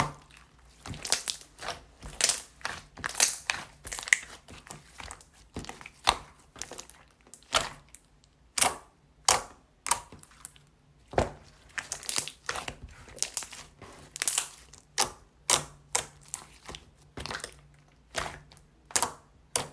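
Soothing gel slime being squeezed and poked by hand, making wet clicking pops and crackles at an irregular pace of one or two a second.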